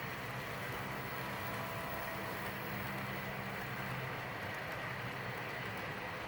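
Model coal train running on the layout track behind a Kato SD80MAC locomotive, a steady hum.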